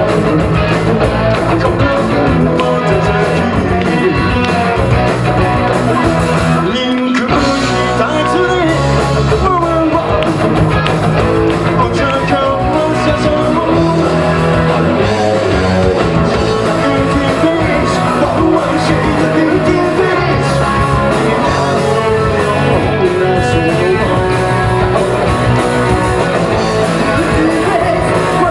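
Rock band playing live with a singer: electric guitar, bass and drums, with a short break in the bass and drums about seven seconds in.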